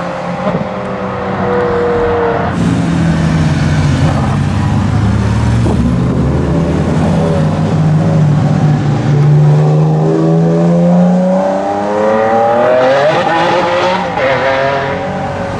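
Supercar engines across a run of short clips. Through the middle, a Maserati MC12's V12 holds a steady low note that slowly rises in pitch. Near the end, another car accelerates hard, its engine pitch climbing.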